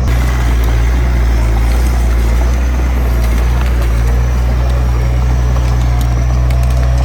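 Diesel engine of a piece of earthmoving equipment running steadily at constant speed, a loud low drone.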